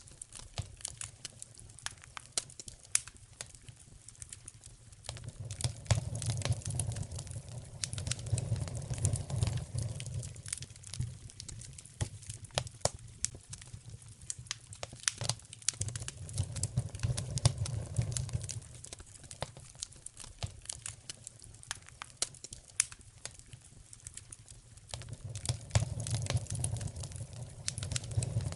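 Wood fire crackling in a fireplace, with sharp pops and snaps throughout over a low rumble that swells and fades three times.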